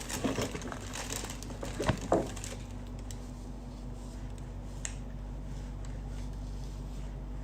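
Crinkling and knocking handling noises close to the microphone for the first two and a half seconds, loudest about two seconds in. After that a steady low electrical hum goes on alone.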